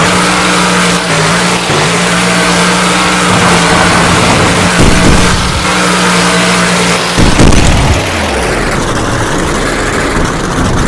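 Monster truck engine held at high, steady revs, with a loud bang about seven seconds in; after it the engine pitch drops and then starts to climb again.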